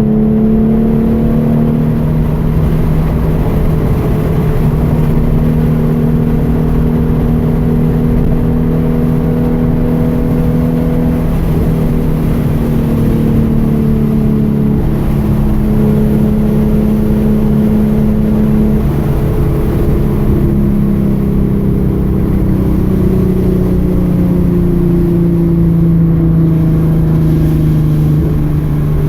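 Hyundai Genesis Coupe's 3.8-litre V6 running at fairly steady moderate revs. Its pitch drifts and steps down and up a few times over a low road rumble.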